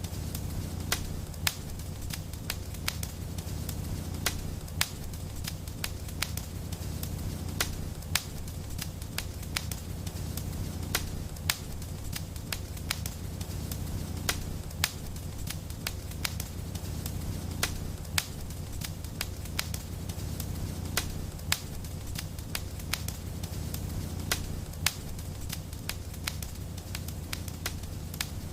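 Wood fire in a fireplace crackling and popping: irregular sharp pops, several a second, over a steady low rumble of burning.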